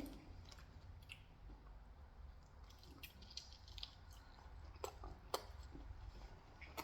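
Faint chewing of pizza: soft wet mouth sounds, with a few small clicks about five seconds in.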